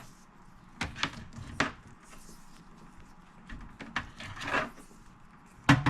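Handling noise as a stereo receiver's power cord is wound up: scattered knocks and clicks with some rubbing, the sharpest knock near the end.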